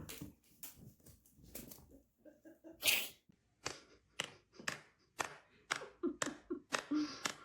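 An animal's short, noisy puffs of breath, repeated and coming about two a second in the second half, with one louder puff about three seconds in.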